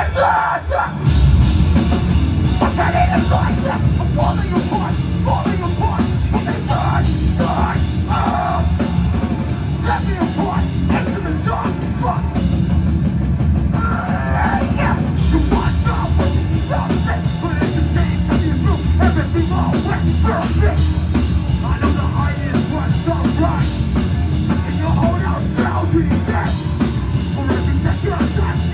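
Heavy metal band playing live at full volume, with a drum kit and amplified guitars driving a steady, dense wall of sound.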